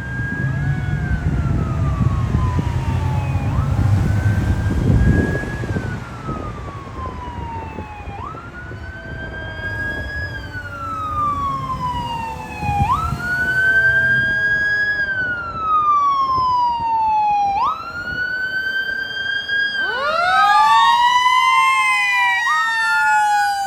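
Fire engine's siren wailing, each cycle rising quickly and falling slowly about every two and a half seconds, over the low rumble of the engine as it pulls away. About twenty seconds in, a second siren rises in pitch alongside it.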